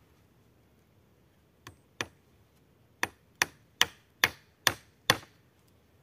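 A hand tool striking wood in sharp knocks: two single blows, then six in a steady rhythm of about two a second.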